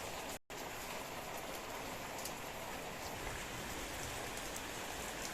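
A steady, even hiss like rain or frying, with faint scattered ticks. It cuts out completely for a split second about half a second in.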